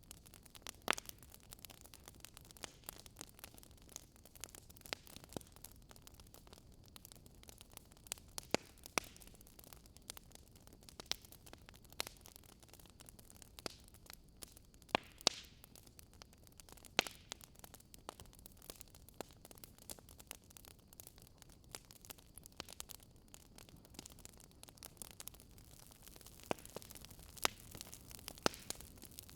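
Wood fire crackling faintly, with a soft steady hiss and irregular sharp pops of burning logs.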